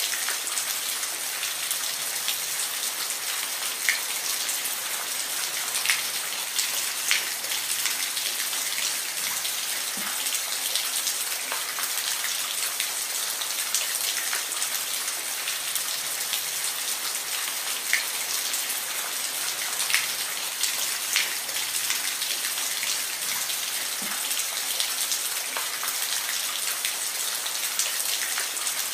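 Steady rain falling, a dense even hiss with scattered louder individual drops hitting a surface every second or two.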